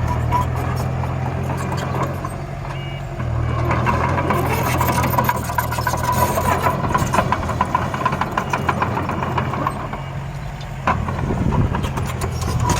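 Engine of a miniature construction vehicle running at a steady idle, with clicking and rattling over it. The engine note shifts about three seconds in and again near the end.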